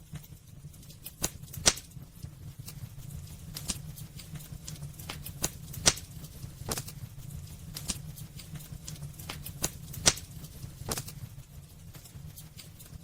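Wood fire burning in a fireplace: irregular crackles and sharp pops from the burning logs, a few louder snaps among them, over a steady low rumble.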